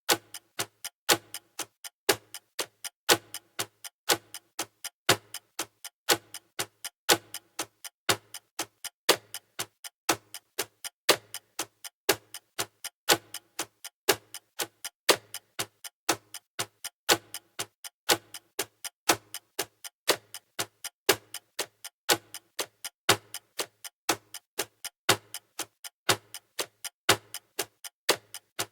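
Countdown timer's clock ticking sound effect: steady, even ticks with a louder tick about once a second.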